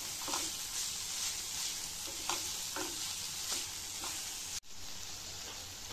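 Chopped vegetables and tomato sauce sizzling in a stainless steel pot on a gas flame, while a wooden spatula stirs and scrapes against the pot several times. The sound drops out for an instant about four and a half seconds in.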